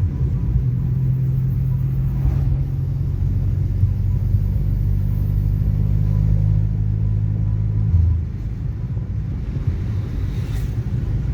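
Heavy bass from a car sound system playing funk, heard as a low, steady rumble with almost nothing above the bass. The bass notes are held for several seconds and change about eight seconds in.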